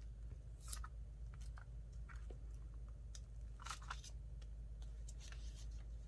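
Paper being handled on a desk: a few short, soft crinkles and scrapes, the loudest near the middle, over a faint steady low hum.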